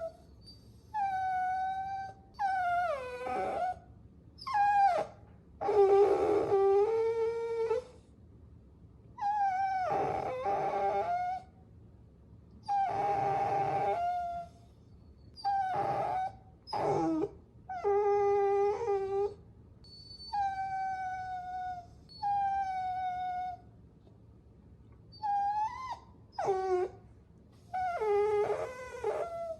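Puppies whining: a run of high-pitched cries, each half a second to two seconds long, with short pauses between them.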